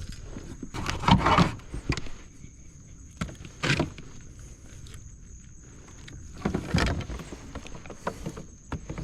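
Handling noise aboard a fishing kayak: irregular knocks and rustles against the hull and gear, coming in several short bursts.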